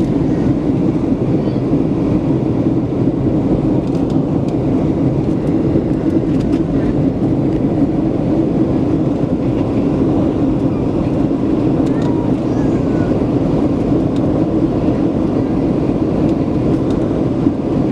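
Steady cabin noise inside a Boeing 737-700: a loud, even rumble and drone of airflow and its CFM56-7B engines, with a few faint clicks.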